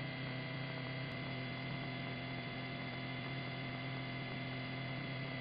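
Steady electrical hum with a faint hiss on a police radio/intercom audio feed between transmissions, unchanging throughout.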